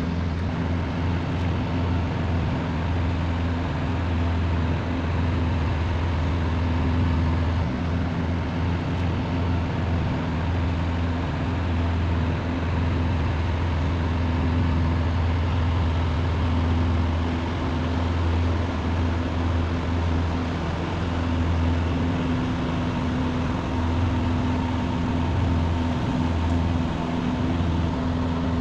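Engines of a jet-powered river barge running, a steady drone with a deep hum and several low tones under it.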